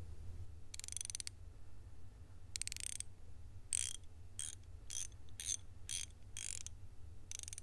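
Ratchet spanner being turned in a run of about nine short, uneven ratcheting strokes, over a faint steady low hum.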